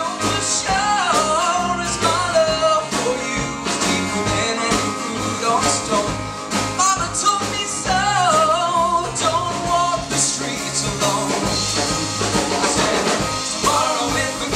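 Live band music: a sliding, held melody line over sustained bass and a steady beat.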